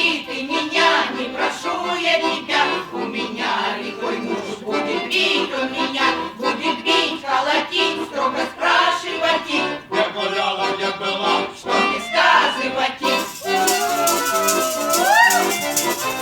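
Russian folk song played on accordion with steady rattle-like percussion keeping the beat, and ensemble voices sliding up in a whoop near the end.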